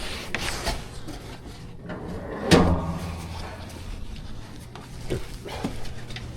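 Scattered knocks and clicks with one loud thud about two and a half seconds in, over a steady low hum.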